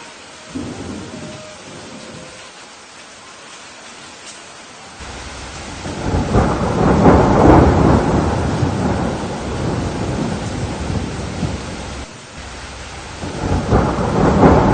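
Thunder rolling over steady rain: a first low rumble about half a second in, then a long, louder roll that builds from about five seconds and fades, and another rumble rising near the end.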